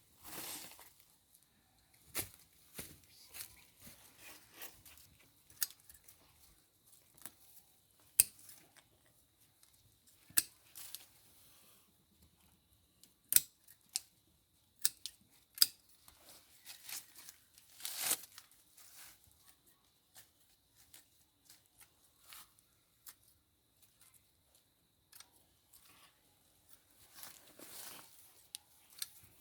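Irregular sharp clicks and snaps, a few much louder than the rest, scattered among short rustling, crinkling sounds.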